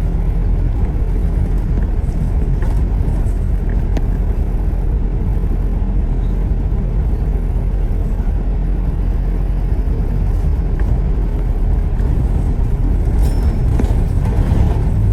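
Steady low rumble of a bus in motion heard from inside: engine and road noise.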